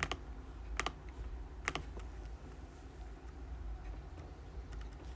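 Scattered keystrokes on a computer keyboard: a few sharp clicks, some in quick pairs, during the first two seconds and again near the end, over a faint steady low hum.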